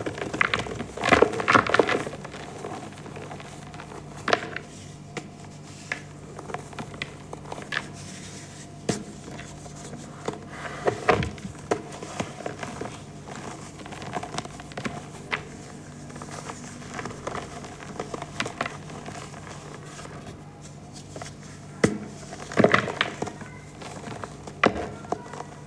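Over-dried, dusty reformed gym chalk being crushed and crumbled: irregular crunches and crackles, with denser runs of crunching near the start and again near the end. A low steady hum sits underneath.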